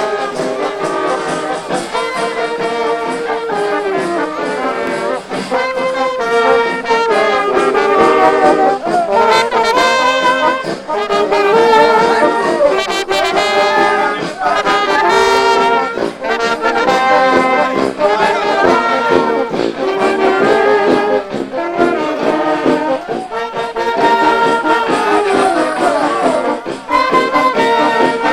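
Brass music plays continuously, a melody of shifting held notes carried by horns.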